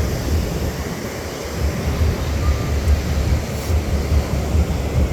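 Wind buffeting the phone's microphone in an uneven low rumble, over the steady wash of surf.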